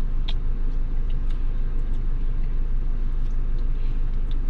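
A steady low rumble like a vehicle engine running at idle, with a few faint clicks from handling the food.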